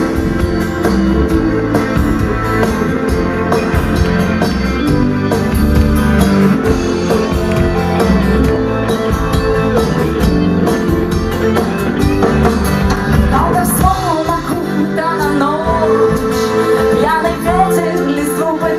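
Rock band playing live between sung lines, with drums, bass and guitar; near the end a wavering lead line, voice or guitar, comes in over the band.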